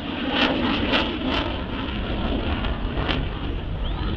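Twin GE F414 turbofan engines of an F/A-18E Super Hornet at takeoff power, heard as a steady rush of noise with a deep rumble. Several short gusts of wind hit the microphone during the first second and a half and again about three seconds in.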